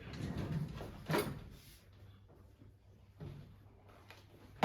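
Quiet kitchen handling noises: a sharp click about a second in, soft knocks, and another faint knock near the end.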